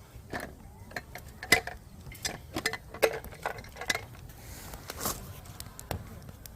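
Firewood burning in a campfire, crackling with irregular sharp pops, the loudest about a second and a half in.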